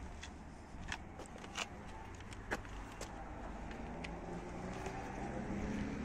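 A car engine running nearby over a low outdoor rumble, steadier and a little louder in the second half, with a few sharp clicks in the first half.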